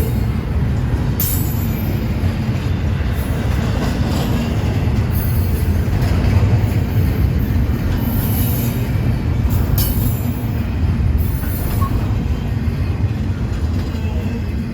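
A freight train rolling past, its wheels on the rails making a steady heavy rumble, with brief high-pitched screeches every second or few.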